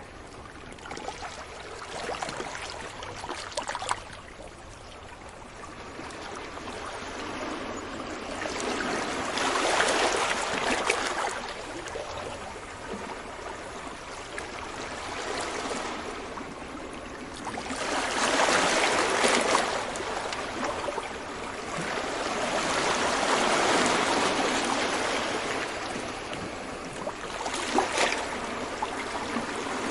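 Ocean waves breaking gently on a beach, the surf swelling and fading in a continuous wash, with the loudest breakers about ten and nineteen seconds in.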